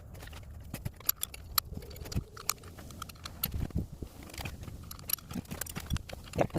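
Metal tools and parts being handled during engine work: an irregular string of light clinks and taps, with a louder knock near the end, over a low steady hum.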